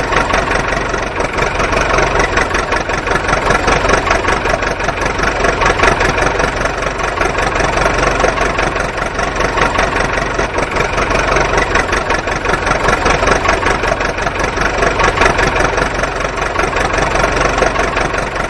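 Vehicle engine idling steadily, with a fast, even rattling pulse.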